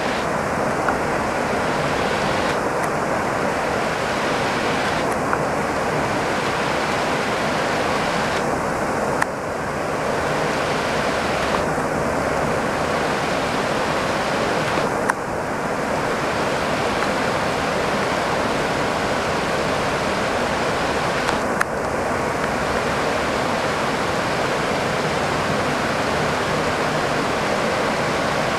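Heavy downpour of rain: a steady, dense hiss of rain falling, with a few faint clicks about 9, 15 and 21 seconds in.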